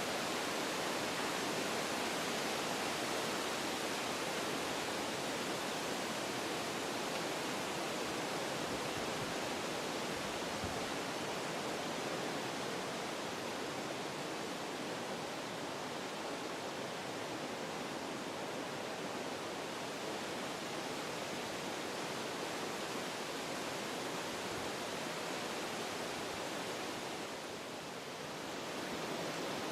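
Wind blowing through forest trees, a steady rushing noise that eases briefly near the end and then picks up again.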